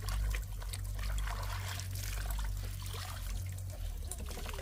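Bath water trickling and dribbling as a small child is washed, with small splashes, over a steady low hum.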